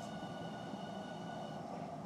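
Osaka Metro 66 series train heard from inside the car while running: a steady rumble of wheels on rail with a thin, faint high whine that fades out near the end.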